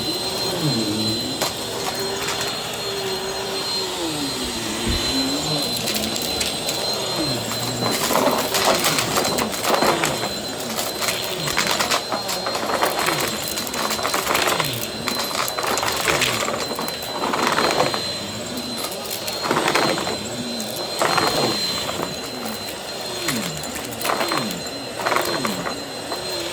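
Vacuum cleaner running with a steady high motor whine and a lower hum that wavers in pitch. From about a third of the way in, the airflow surges roughly once a second as the cleaner is pushed rapidly back and forth over the floor.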